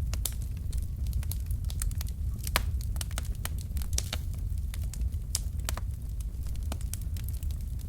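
Wood fire of burning logs crackling, with irregular sharp pops several times a second over a steady low rumble; a louder pop comes about two and a half seconds in and another about four seconds in.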